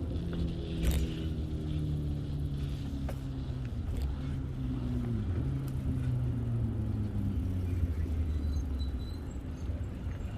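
Motor vehicle engine hum whose pitch slowly falls over several seconds, with a few light clicks.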